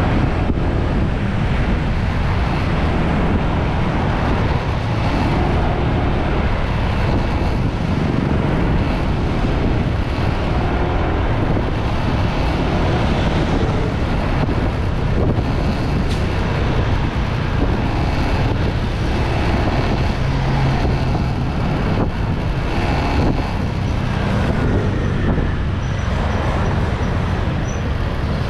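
Motorbike on the move: steady wind noise on the microphone mixed with the bike's engine and road noise.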